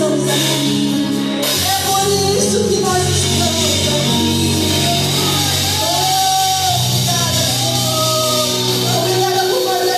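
Live gospel worship music: singing over a band, with held bass notes and a steady wash of cymbals.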